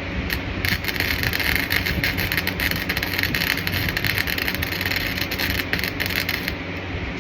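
Arc welding a bead on a torque box for about six seconds: a dense, steady crackle that starts just after the beginning and stops suddenly near the end, over a low steady hum.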